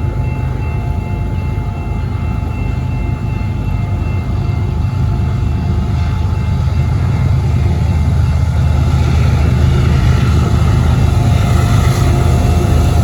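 A train running past with a steady low rumble that grows louder in the second half.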